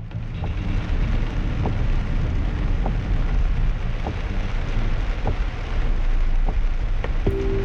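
Heavy rain on a moving car, with a steady rush of rain and wet-road noise and a faint tick about every second and a quarter. Background music comes back in near the end.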